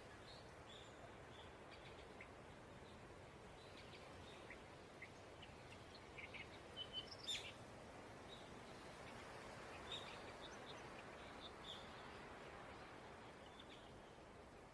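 Faint bird chirps, short high calls scattered throughout and loudest in a quick cluster about seven seconds in, over a steady low background hiss of outdoor ambience.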